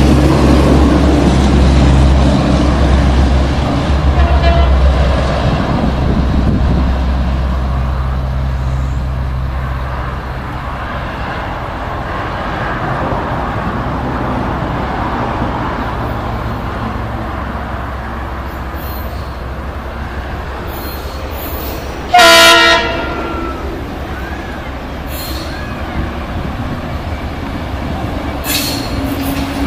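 Diesel locomotive engine running with a deep drone that eases off after about ten seconds, leaving the steady rolling noise of the train. About two-thirds of the way through there is one short, loud blast of a train horn.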